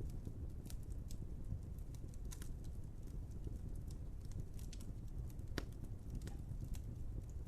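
Wood fire crackling: irregular sharp pops and snaps over a steady low rumble, with one louder pop about five and a half seconds in.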